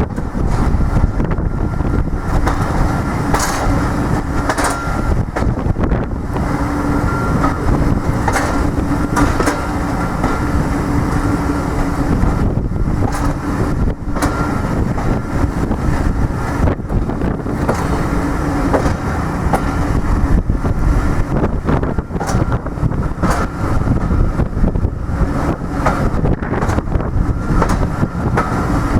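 A train running on the line: a continuous rumble with a steady hum and scattered sharp clicks and knocks throughout.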